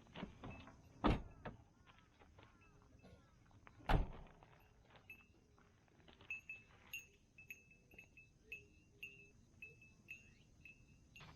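Two sharp knocks with small clicks between them, like wooden or metal gear being set down and handled. From about halfway on, a bird calls over and over in short high notes, roughly two a second.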